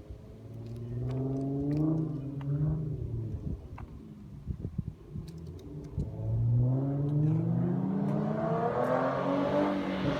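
Infiniti G37's 3.7-litre V6 revving through a muffler-delete exhaust with test pipes, a Y-pipe and stock resonators: a short rise and fall in pitch about a second in, then a longer, louder climb from about six seconds, still rising near the end.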